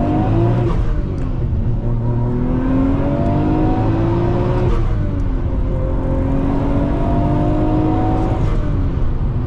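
Nissan Skyline GT-R R34's 2.6-litre twin-turbo inline-six (RB26) accelerating hard through the gears of its six-speed manual. The engine note climbs steadily and drops at each upshift, three times: just after the start, about halfway, and near the end.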